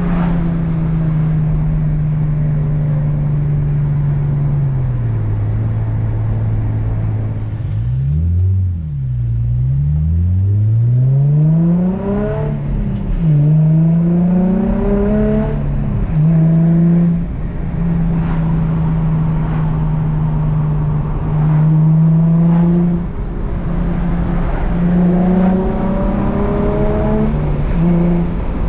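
Infiniti G35 coupe's VQ V6 through a Z1 M Spec dual exhaust, driven with a manual gearbox: the engine note mostly holds steady, dips at gear changes and lifts, and twice climbs clearly in pitch under acceleration about halfway through.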